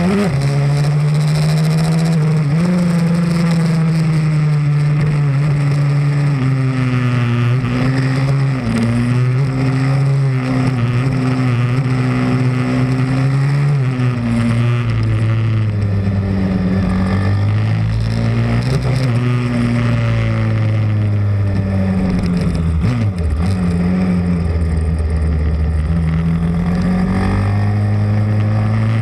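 Small single-cylinder pit bike engine running hard on track, its pitch rising and falling again and again as the throttle is opened and closed.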